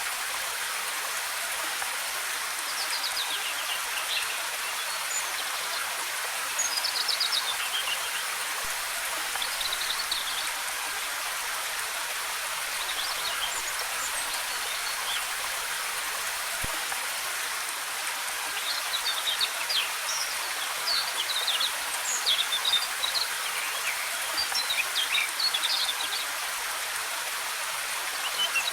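Waterfall running with a steady rush of falling water, while forest birds sing in short, scattered chirping phrases over it, busiest in the second half.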